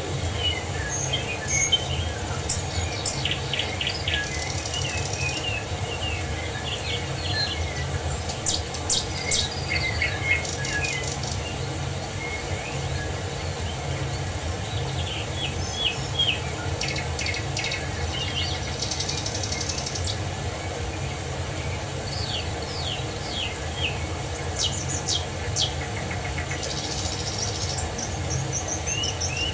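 Several songbirds chirping and trilling in short phrases over the steady rushing of a waterfall.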